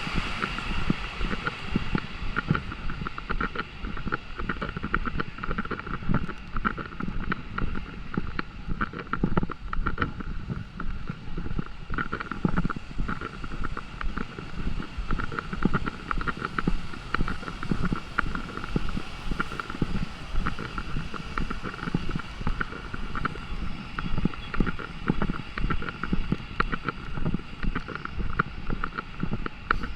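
Wind buffeting the microphone with rain pattering, an irregular, fluttering noise.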